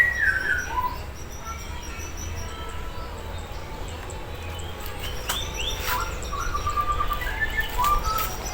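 White-rumped shama (murai batu) singing in clear whistled phrases: a loud sliding note right at the start, then quick rising sweeps and a short run of repeated notes in the second half.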